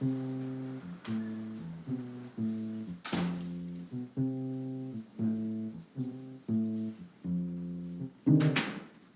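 Background music on guitar: a run of plucked chords in an even rhythm, ending with a louder strum near the end.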